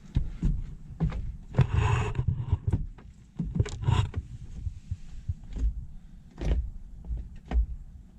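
Irregular knocks and clunks, with a brief scraping rustle about two seconds in, as a car part is handled and worked into its mounting.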